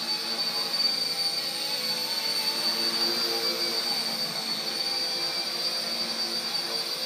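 Small electric RC helicopter, an RC Era C032 UH-1 Huey, in flight: a steady high-pitched motor whine over the buzz of its rotors.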